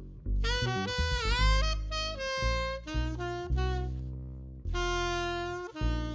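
Saxophone playing a jazz melody line over a bass accompaniment. One note bends down and back up about a second in, and the line pauses briefly past the middle before going on.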